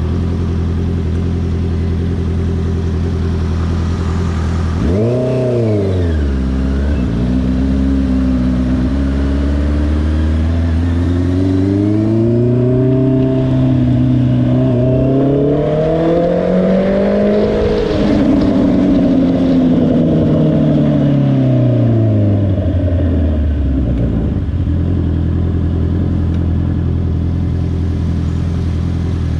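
Honda CBR650R's inline-four engine idling. About five seconds in it gives a quick rev blip, then the revs climb steadily for about ten seconds and fall back to idle near the end.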